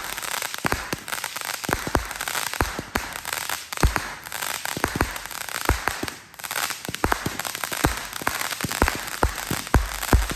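Fireworks going off: a rapid, irregular string of sharp bangs and pops, several a second, over continuous crackling, with a short lull about six seconds in.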